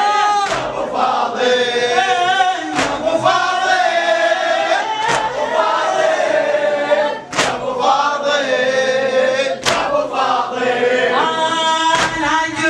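Male voices singing a latmiyya refrain together, with a sharp percussive strike about every two and a half seconds keeping the beat.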